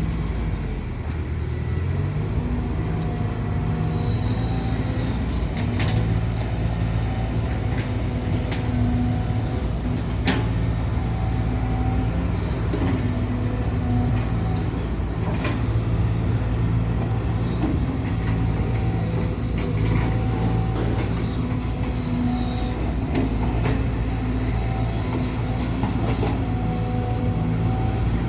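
Sumitomo SH210-6 excavator's diesel engine running steadily. Its pitch rises about a second in, and a few sharp knocks sound through it.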